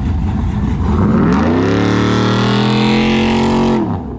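Truck engine revving from idle up to high rpm, held there for about two seconds with tyre noise above it, then cut off suddenly: a burnout.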